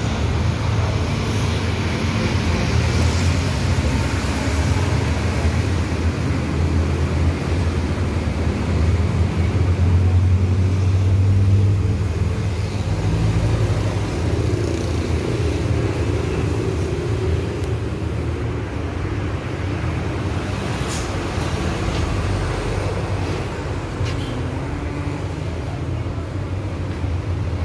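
Motor vehicle noise: a steady low engine rumble with road traffic, swelling about ten seconds in.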